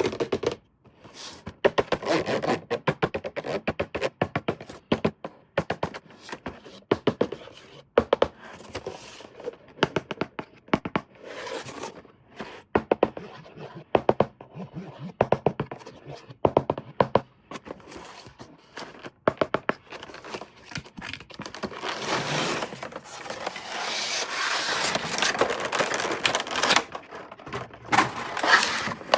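Hands handling plastic toy parts and packaging: a quick, irregular run of clicks, taps and knocks, with a stretch of continuous scratchy scraping about two-thirds of the way through.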